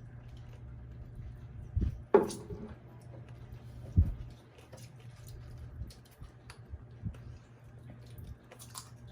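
Small child eating at a table: soft chewing, squishing and small handling clicks, with knocks about two seconds in and a sharp low knock about four seconds in, over a steady low hum.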